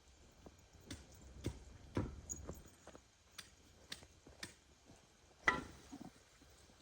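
Irregular light knocks and taps from hand work on a garden bed, about a dozen spread unevenly, with one louder knock about five and a half seconds in.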